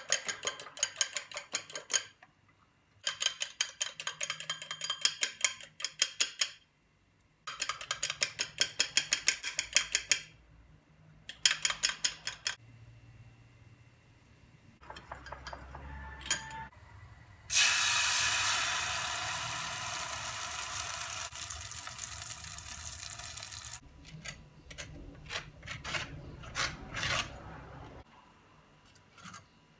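A fork or whisk beating in a bowl in several quick rhythmic bursts, clinking against the sides. About halfway through, a loud sizzle starts suddenly and fades over about six seconds, as when a mixture hits a hot oiled pan. A few more clinks follow.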